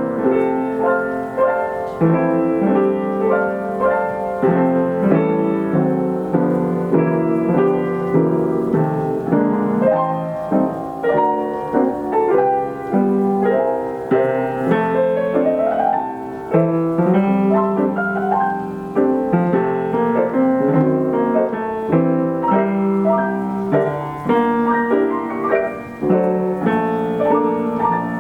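Steinway piano with an Ampico B reproducing action playing a 1936 Ampico roll: a popular-song arrangement in full chords with a moving melody, with a quick rising run about halfway through.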